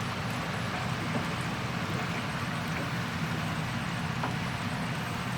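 A heavy machine's diesel engine running steadily, with a few faint clicks over it.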